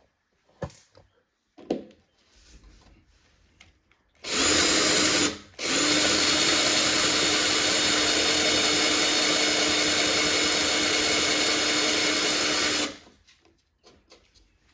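Electric drill drilling into wood to deepen a pre-drilled hole that was too shallow. It gives a short burst of about a second, pauses briefly, then runs steadily for about seven seconds and stops sharply. Light handling clicks come before and after.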